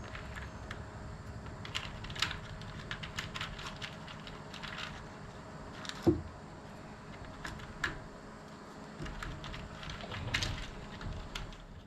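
Scattered light clicks and taps of plastic push-type trim clips being handled and pressed into place, with one louder knock about six seconds in.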